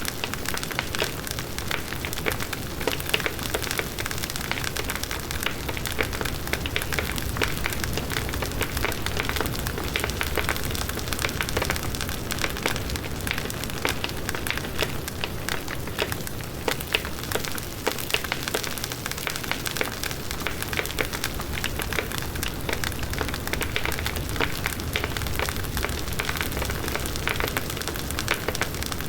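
Large wood bonfire burning: dense, continuous crackling of the burning wood over a steady low blaze of the flames.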